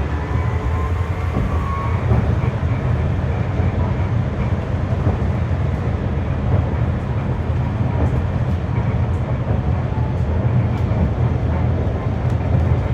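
Berlin GT-series low-floor tram (type GTZO) under way, a steady running rumble of wheels on rail with faint high whines that come and go.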